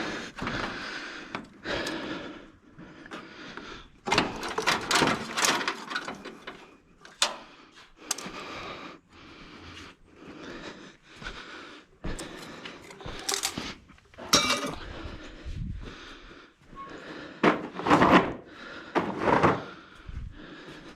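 Hands working turbo plumbing loose in an engine bay: irregular scrapes, rustles and clunks of rubber boot and metal pipe being pulled, loudest in clusters about four, thirteen and eighteen seconds in.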